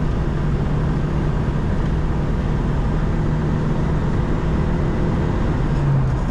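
Inside the cabin of a 1991 Škoda Favorit 135L, its 1.3-litre four-cylinder engine pulls hard in fourth gear while the car gathers speed at about 125 km/h. The engine drone is steady over constant road and wind noise.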